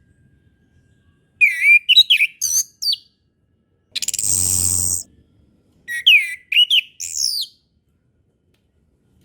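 Orange-headed thrush song: two short bursts of quick, varied whistled notes sweeping up and down, with a harsh buzzing sound about a second long between them.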